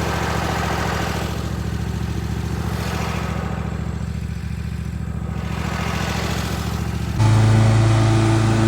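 Engine of earth-moving machinery running steadily. About seven seconds in it gets louder, with a stronger, lower hum.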